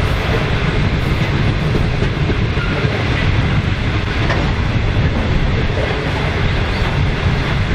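Loaded grain train running past close by: a long string of steel grain hopper wagons rolling steadily on the rails, a loud, even noise with a heavy low rumble, hauled by three 81 class diesel locomotives.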